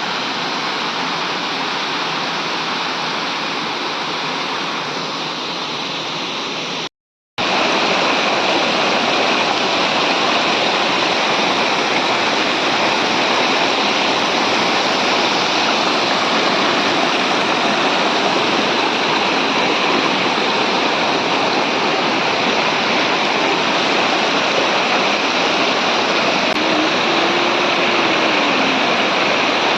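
Waterfall rushing, a steady loud roar of falling water. It drops out briefly about seven seconds in and comes back a little louder.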